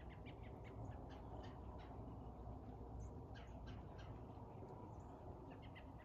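Faint bird calls, short and high, coming in several quick clusters over a steady low background rumble.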